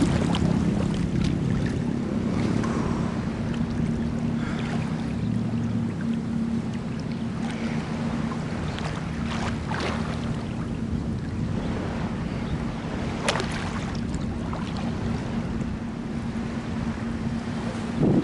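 Sea water washing and splashing at the shoreline, with a few sharp splashes, over a steady low hum.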